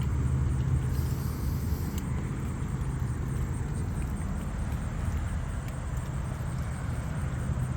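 A steady low hum with no break, like a running motor or engine.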